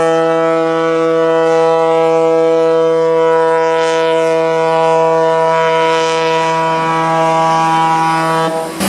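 Ship's horn sounding one long, steady blast at a single pitch, cutting off shortly before the end.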